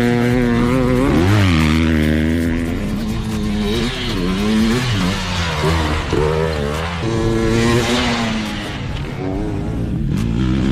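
Off-road motorcycle engines revving up and down in pitch as the bikes are ridden hard, the revs climbing and dropping every second or so.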